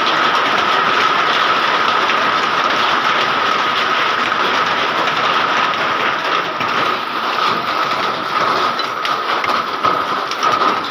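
Hail falling with heavy rain: a dense, steady hiss of rain with many sharp hailstone impacts, which become more distinct and uneven about halfway through.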